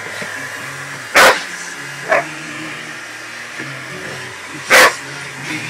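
A dog barking at a running hairdryer: two loud barks about three and a half seconds apart, with a shorter, weaker bark between them, over the hairdryer's steady hum.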